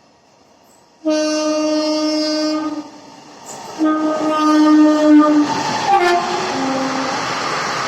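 Express train's horn sounding in two long blasts, the second ending in a drop in pitch, followed by the steady rush of the train running through the station.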